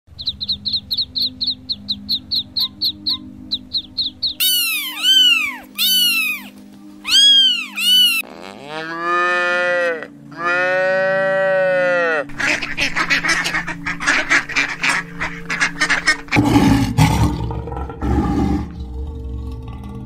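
A sequence of animal calls over background music. First baby chicks peep rapidly, then come a few short, loud bird calls and a cow mooing twice in long calls. A rapid chatter of calls follows, and near the end comes a lion's low, rough growling.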